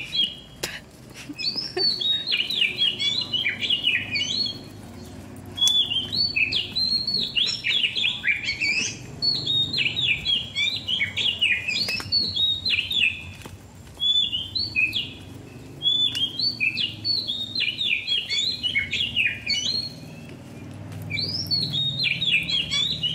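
A songbird singing loud, rapid phrases of chirping, sweeping notes, in bouts of a few seconds separated by short pauses.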